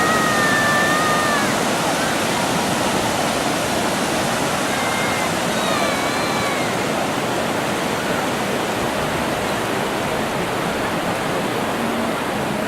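Ocean surf washing steadily onto the beach, an even rushing noise with no breaks. A few faint, short whistling calls come through near the start and again about six seconds in.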